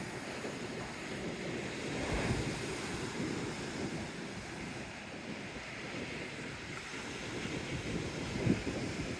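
Sea waves washing in along a seawall, with wind rumbling on an unshielded phone microphone and a couple of sharper gusts near the end.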